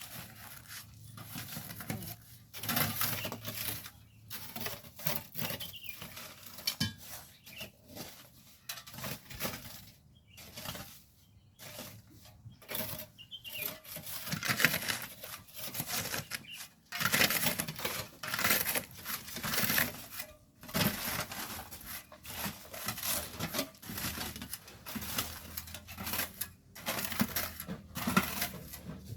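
Hand tools scraping and chopping into volcanic sand and stones, in irregular strokes with gritty scrapes and stony clinks.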